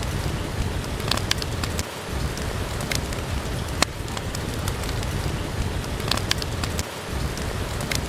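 Steady rain with a wood fire crackling, a few sharp pops standing out every second or two.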